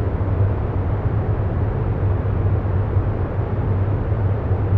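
Steady, low rumbling background noise with a deep hum, unchanging throughout.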